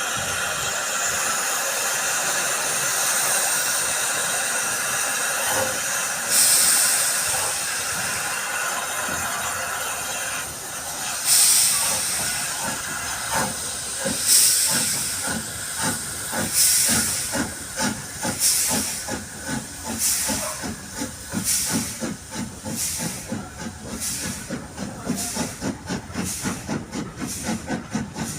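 S&DJR 7F 2-8-0 steam locomotive 53808 hissing steam while standing, with one louder gust about six seconds in. About eleven seconds in it starts away: its exhaust chuffs begin slow and widely spaced and quicken steadily as the engine gathers speed.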